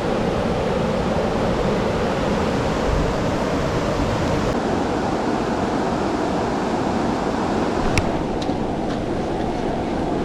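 Steady rushing of outdoor wind and flowing river water, heaviest in the low end, with one sharp click about eight seconds in and a few faint ticks after it.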